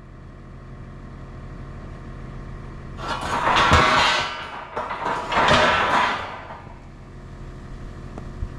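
Engine of heavy equipment carrying rail, running steadily and growing gradually louder. Two loud, harsh rushing noises of about a second and a half each come in the middle, a couple of seconds apart.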